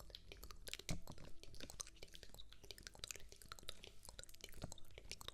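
Close-miked ASMR trigger sounds: rapid, irregular crackling and clicking, with one stronger knock about a second in.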